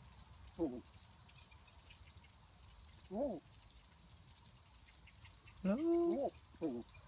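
Steady high-pitched insect chorus, likely crickets, running throughout. A few short voice-like calls break in, including a spoken "hello" near the end.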